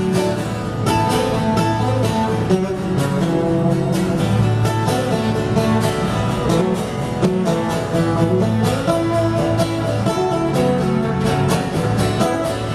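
Live country band playing an instrumental stretch between sung lines, guitar to the fore over a steady beat.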